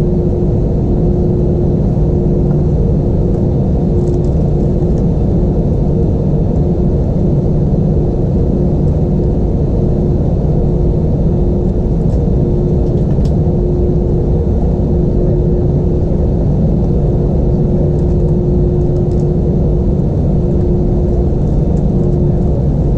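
Cabin noise of an Airbus A320-232 on the ground, its IAE V2500 engines running at low power: a steady rumble with a constant hum through it.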